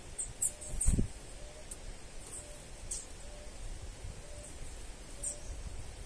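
Small birds giving short, very high chirps, several scattered through the moment, over a faint outdoor background with a soft, regularly repeating low note. About a second in there is a single dull thump, the loudest sound.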